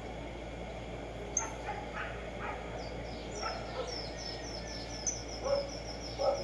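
Black-striped sparrow singing: a run of repeated high notes, about four a second, that starts about halfway through, mixed with scattered lower calls of other birds over a steady background hiss.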